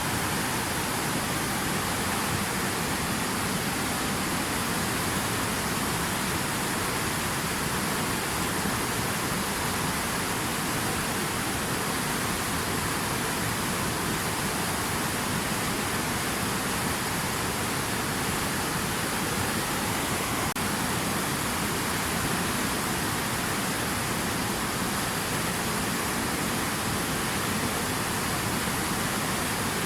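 Steady rushing water: a continuous, even wash of noise with no separate splashes or drops standing out.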